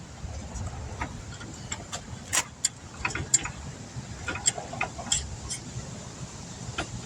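Irregular metal clicks and clinks of hand tools and brake parts being handled during brake work, a handful of sharper knocks among lighter ticks, over a steady low background rumble.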